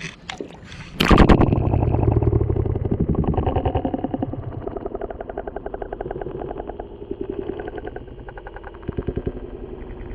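Splash as a sealed action camera goes into the lake about a second in, then muffled underwater water noise: a rapid, pulsing churn that slowly eases off.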